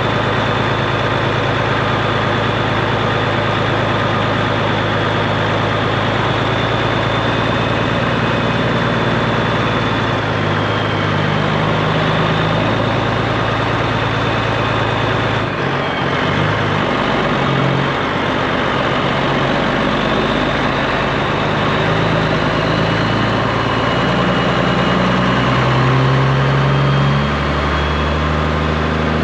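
Straight-piped Peterbilt 389's diesel engine running steadily, then from about ten seconds in its engine speed steps up and down several times, climbing highest near the end.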